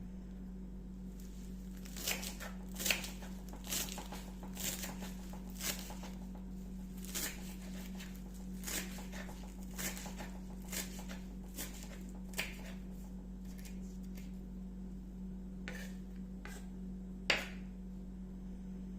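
Momo-making kitchen work: a run of light taps and clicks, about one a second for the first half, then a few scattered ones with a sharper click near the end, over a steady low electrical hum.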